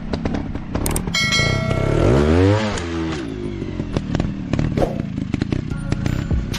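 Motorcycle engine sound revving up and back down about two seconds in, over repeated clattering and scraping.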